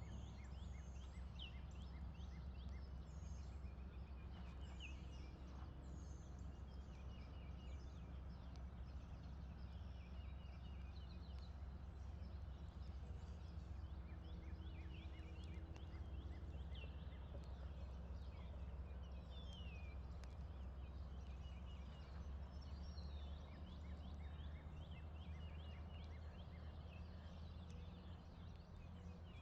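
Many birds chirping and singing, with short quick notes repeating throughout, over a steady low rumble.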